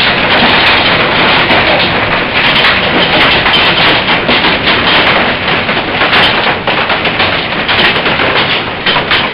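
Dense, loud clatter of quarter-sized hailstones pounding a roof and the ground outside, a continuous hiss made of countless tiny impacts.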